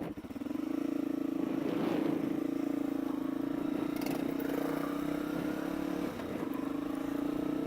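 1985 Suzuki SP250's single-cylinder four-stroke engine running steadily while the motorcycle is ridden, its note dipping briefly about six seconds in.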